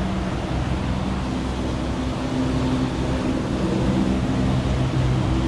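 A car running: a steady engine hum with road noise, heard from inside the cabin.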